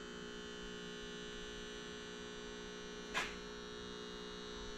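Steady electrical hum made of several steady tones, with a brief rustle or click a little after three seconds in.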